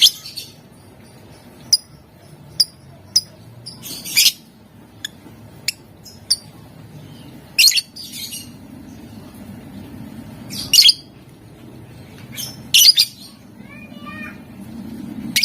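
Lovebird calling: short sharp chirps and loud harsh screeches every few seconds, with a quick run of falling chirps near the end.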